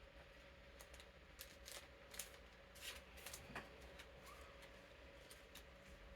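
Faint, irregular rustles and clicks of game cards being slid into plastic card sleeves, over the steady hum of an electric fan.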